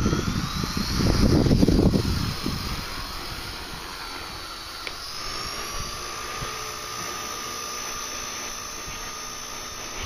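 Walkera V120D02S micro RC helicopter's electric motor and rotor whining, the pitch rising at the start and climbing again about five seconds in as the motor speeds up. Wind gusts buffet the microphone for the first two seconds.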